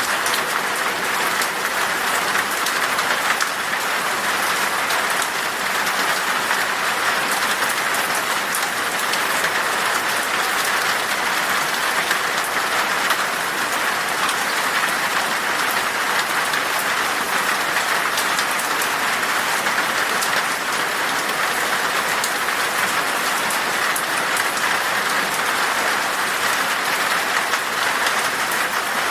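Steady rain falling in a forest, a dense even hiss with many fine drop ticks.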